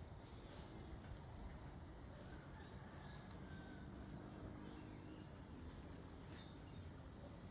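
Faint, steady high-pitched insect chorus, with a few short bird chirps near the end.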